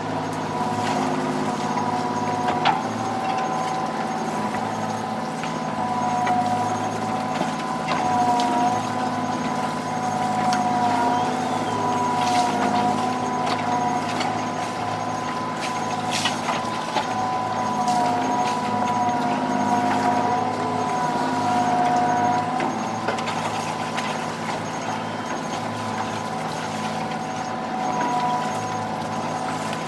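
Fishing boat's machinery running steadily: a low engine drone under a high, slightly wavering two-note whine, with a few sharp clicks.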